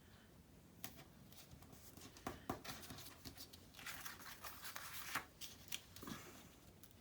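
Scissors snipping paper and paper cut-outs being handled: a few sharp snips and clicks, with a longer rustle about four to five seconds in.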